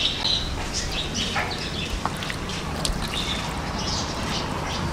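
Birds chirping again and again over a steady hiss and a low hum.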